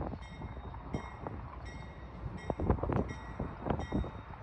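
Amtrak locomotive 83 moving slowly through a set of switches, its wheels clunking irregularly over the rail joints and switch points above a low, steady diesel rumble. The heaviest clunks come near the middle and about three quarters of the way through.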